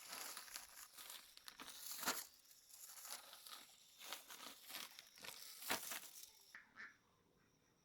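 Rustling, crinkling handling noise with several sharper crackles, stopping about six and a half seconds in.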